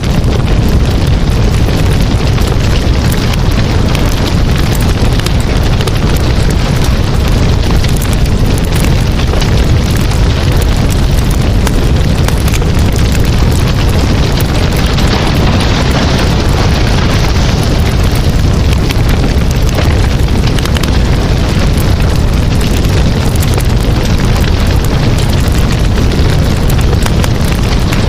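Wood campfire burning, a steady low rush full of constant small crackles and pops.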